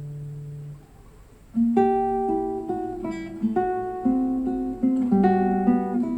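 Acoustic guitar picking a melody of single plucked notes, played back through Intimus Pebblee M+ loudspeakers with a custom AMT tweeter. A low held note fades out within the first second, and after a short lull the picking begins about a second and a half in.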